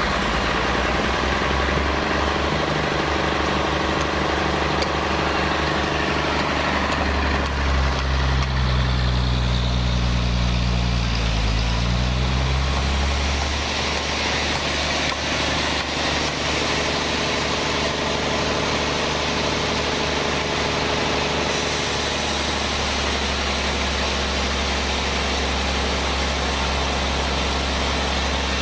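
Sawmill band-saw machinery running with a steady engine-like drone. About nine seconds in, its pitch dips and then recovers over a few seconds.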